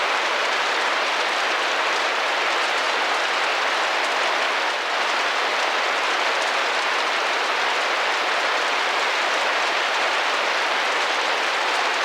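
Steady rain falling and drumming gently against a window pane, a dense even patter without distinct separate drops.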